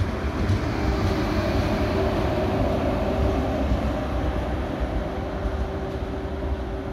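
Passenger coaches of an express train rolling past, wheels running on the rails in a steady, loud rumble. The sound eases a little in the second half as the last coach, a luggage-brake-and-generator car, goes by and draws away.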